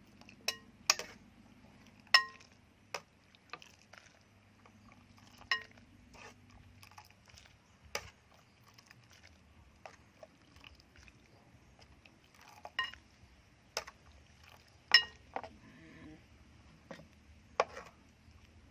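Kitchen utensil clinking against a pot or dish: about a dozen sharp, irregularly spaced metallic clinks, several leaving a brief ring.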